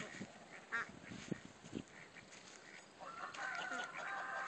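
A goose and its day-old ducklings calling: scattered short calls, then from about three seconds in a longer, drawn-out call.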